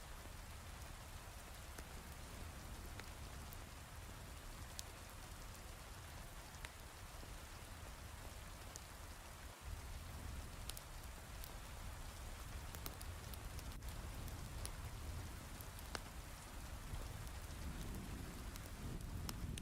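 Steady heavy rain hiss with scattered sharp crackles from a wood fire. A low rumble of distant thunder comes in near the end.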